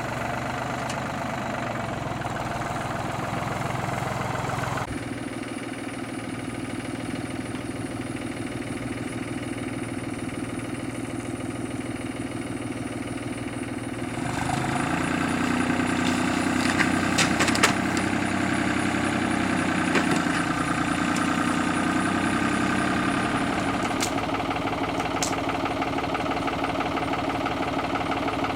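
New Holland tractor's diesel engine running steadily. Its sound shifts abruptly about five and fourteen seconds in, with a few sharp clicks in the louder stretch.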